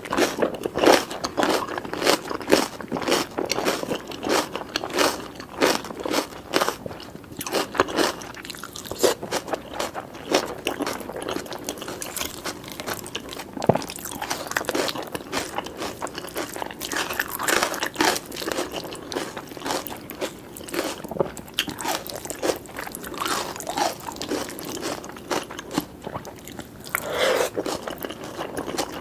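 Close-miked eating sounds: chewing and biting into food, with many small wet, crunchy clicks coming in quick, irregular runs throughout.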